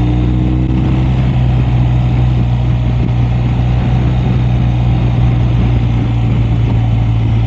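BMW R 1250 RS's 1254 cc boxer-twin engine running at a steady cruise, a constant low drone with wind and road rush over it.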